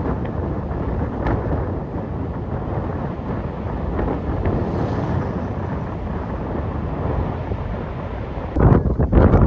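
Wind buffeting the microphone as a steady rushing noise, gusting harder and more choppily near the end.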